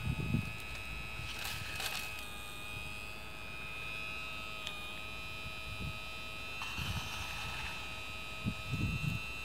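Hydraulic pump of a Damitz O&K RH6 RC excavator whining steadily, its pitch dipping slightly about halfway through. Two short rustling bursts come along with it, and there are low thumps near the start and near the end.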